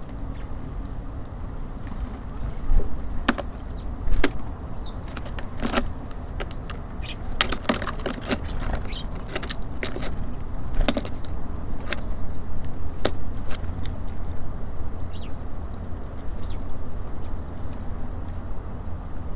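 Small birds at a feeder: sharp taps and knocks of pecking and landing, bunched in the middle, with a few faint high chirps. Under it a steady low rumble of city traffic.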